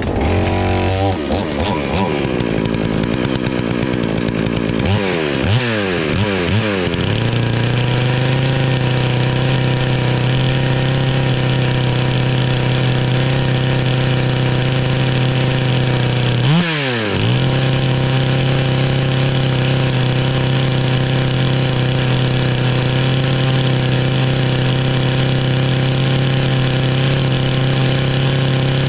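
FarmMac F380W 72cc two-stroke chainsaw starting up, revved a few times, then held at a steady high speed with one brief blip of the throttle about two-thirds of the way through.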